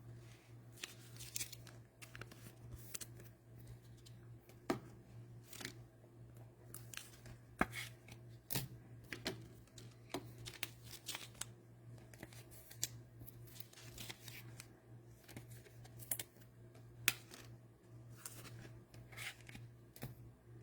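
Cellophane wrapper of a football card cello pack being torn open and crinkled, with the cards sliding and clicking as they are handled: faint, scattered short crackles and snaps over a steady low hum.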